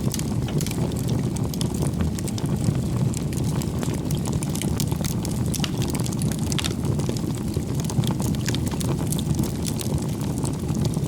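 Wood fire burning: a steady low rush of flame with frequent small crackles and pops from the burning firewood.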